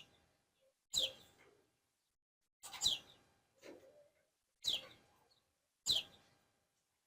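A small songbird chirping: a series of about six short, sharp chirps roughly a second apart, each dropping quickly in pitch.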